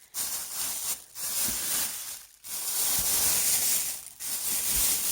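Packaging being handled during an unboxing: a rustling, crinkling noise in several spells about a second long, with brief pauses between.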